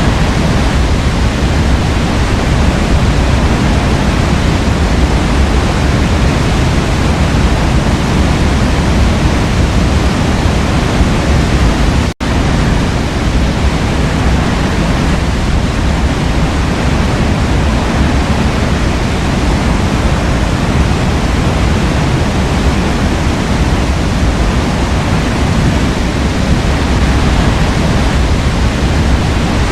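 Waterfall: a steady, loud rush of falling water, cut off for an instant about twelve seconds in.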